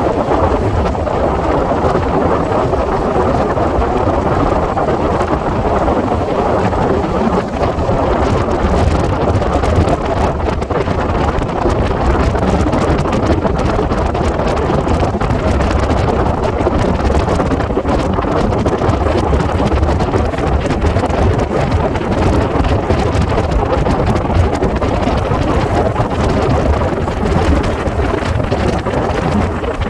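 Steady rumble and rush of a passenger express train running at speed, with heavy wind buffeting the microphone, played back at double speed.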